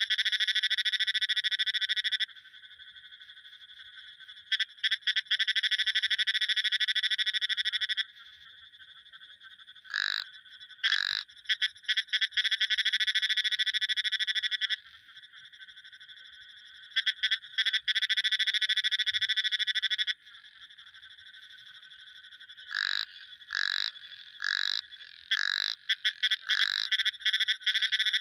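Frogs calling: long, rapid pulsed trills lasting a few seconds each with short pauses between them, and in the gaps a few separate short calls, four in quick succession shortly before the end.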